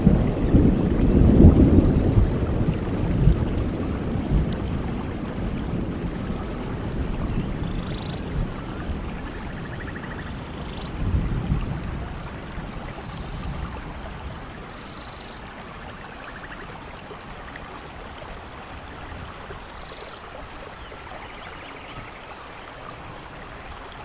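Steady rain with a low rumble of thunder, loud at the start and rolling away over the first dozen seconds or so, leaving an even rain hiss.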